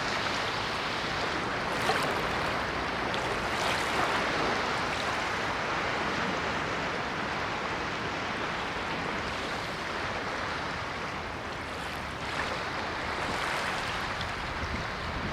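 Ocean waves washing onto a shore: a steady rush of surf that swells and recedes gently, with a few louder breaks about two, four and twelve seconds in.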